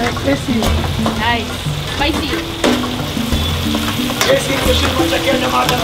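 Mutton, fat, whole tomatoes and green chilies sizzling hard in a steel karahi wok over a gas flame, the fat rendering in the heat. A metal ladle stirs and knocks against the wok several times.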